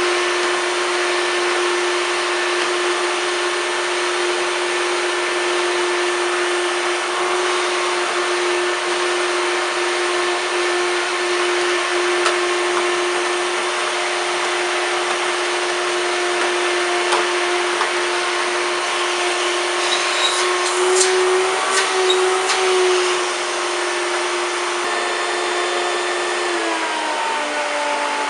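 A 1993 Hoover Turbopower 2 1000 vacuum cleaner runs steadily on high power, a loud motor whine over rushing air, while it sucks up cornflakes. Sharp ticks and a burst of crackles come about two-thirds of the way through. Near the end the motor's pitch steps down and begins to fall.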